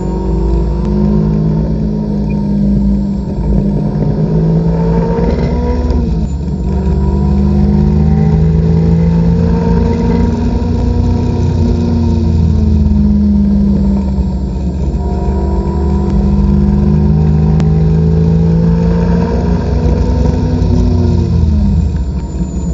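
Supercharged Honda S2000 four-cylinder engine under hard acceleration, heard from inside the cabin. The revs climb, drop sharply about six seconds in as it changes gear, climb again and fall off near the end.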